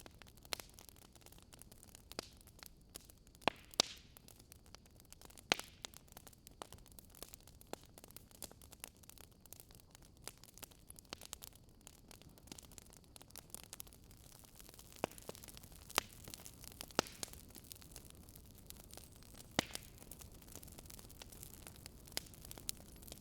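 Wood fire crackling: a faint steady hiss with irregular sharp pops and snaps, some louder than others.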